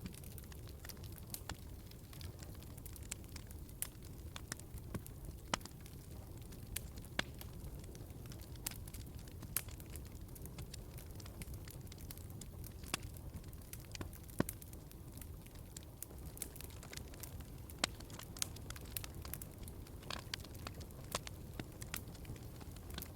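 Log fire in a fireplace crackling: irregular sharp pops and snaps over a steady low rumble.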